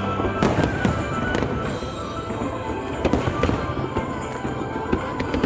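Aerial fireworks bursting in quick, irregular succession, many sharp bangs and crackles, with music playing underneath.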